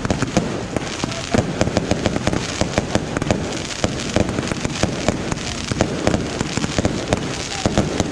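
A dense, irregular barrage of small firework bangs and cracks, several a second, that keeps going without a break.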